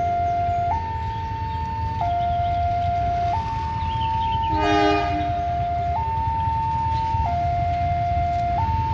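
Railway level-crossing alarm sounding its two-tone warning, alternating high and low about every second and a half, over a low rumble. About halfway through a locomotive horn gives one short blast.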